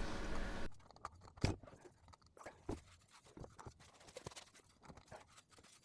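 Faint, scattered small clicks and scrapes of a new oil filter being hand-tightened onto a 5.3L V8, after a steady background hiss cuts off abruptly under a second in.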